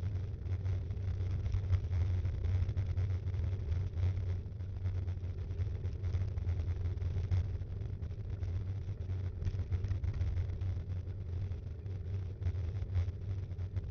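Riding noise from a moving Btwin Rockrider 5.1 mountain bike, heard through its handlebar-mounted action camera: a steady low rumble of tyres and wind, with frequent small rattles and knocks as the bike runs over the road.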